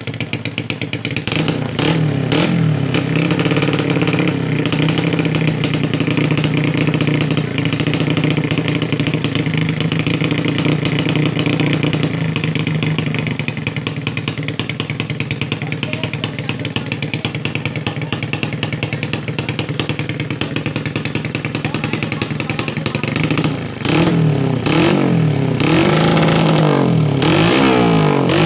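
Honda Supra X four-stroke single-cylinder engine running through an aftermarket Helmi Hendra exhaust. It idles steadily with a short rev about two seconds in, then is revved up and down repeatedly near the end.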